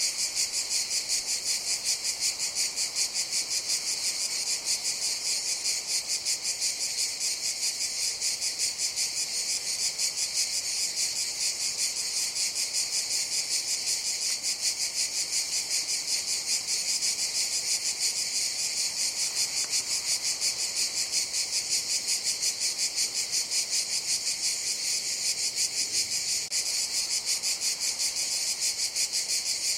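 Cicadas singing in a continuous high-pitched buzz with a fine, even pulse, holding steady without a break.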